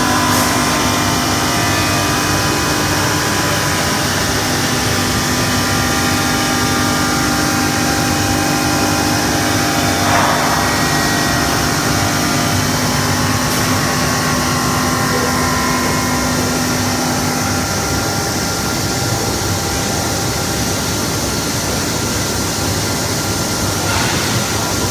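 A CNC glass-cutting machine running: steady machine noise with several held whining tones, and a low hum that drops out about two thirds of the way through.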